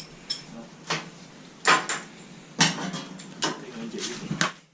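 Metal clinks and knocks, about six of them spaced roughly a second apart, each with a short ring, like hand tools and metal parts being set down and handled.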